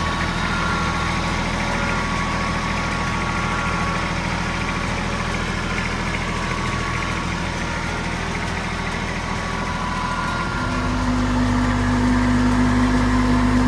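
Tractor engine running steadily, then speeding up about ten and a half seconds in, its note rising and getting louder.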